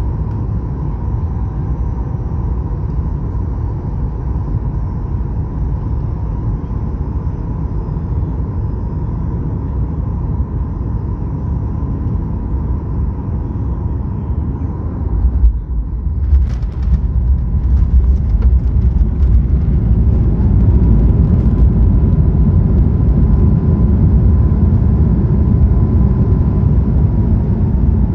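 Cabin noise of a Boeing 737 MAX 8 with its CFM LEAP-1B engines: a steady rumble of engines and airflow with a faint whine. About halfway through comes a sudden jolt with rattling, the touchdown. A few seconds later a louder, deeper rumble and a rising whine set in, as reverse thrust and braking slow the landing roll.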